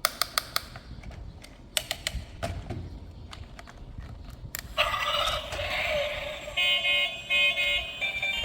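A few sharp clicks of handled plastic, then about five seconds in a toy vehicle's small built-in speaker starts playing electronic horn-like sound effects.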